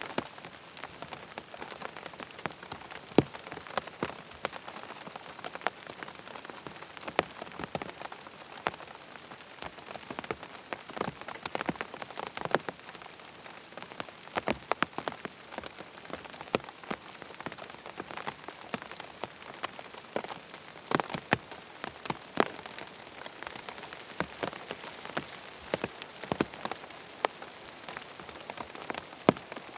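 Steady rain falling on a surface, with frequent sharp ticks and pops from individual drops scattered irregularly through it.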